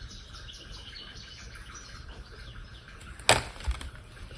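Small birds chirping faintly in the background, with one sharp tap about three seconds in and a softer one just after.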